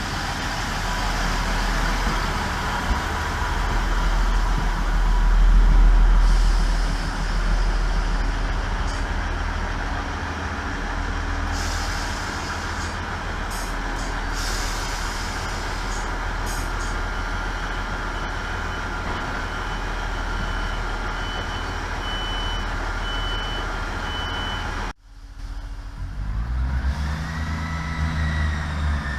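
ScotRail diesel passenger train running in and slowing to a stop at the platform, with a deep rumble and a short row of beeps about two-thirds of the way through. After a sudden break near the end, the engine revs up, rising in pitch, as the train pulls away.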